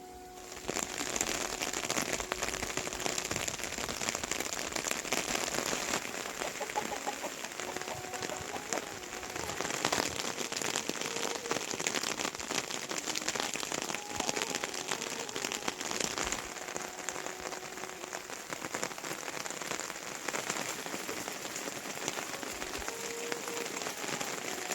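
Steady rain falling, a dense patter of drops hitting a surface. It gets much louder under a second in, then holds.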